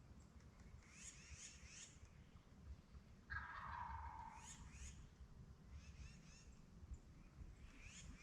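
A wild turkey gobbler gobbles once, about three seconds in, a single rattling call of about a second. Songbirds chirp faintly before and after it.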